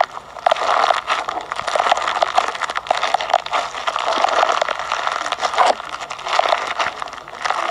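Fishbowl slime, clear slime packed with small plastic beads, being squeezed and pressed by hand: a steady dense crunching crackle of many quick clicks and pops.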